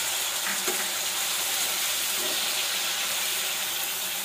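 Chopped onions, tomatoes and garlic sizzling steadily in hot oil in a pan, with a spatula moving through them.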